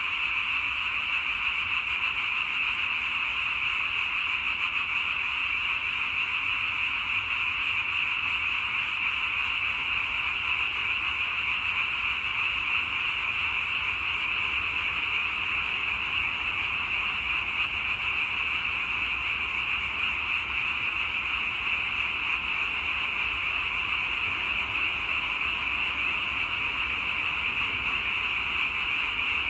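A dense chorus of many frogs calling together, merging into a steady, unbroken din.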